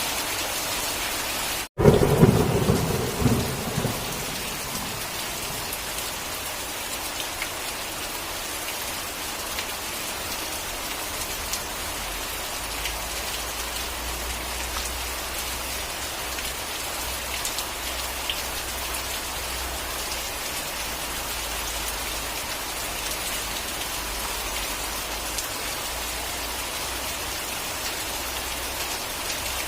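Steady rain falling on a surface, hissing evenly. Just under two seconds in, the sound cuts out for an instant and a loud clap of thunder breaks in, rumbling for about two seconds. A low, steady rumble sits under the rain through the second half.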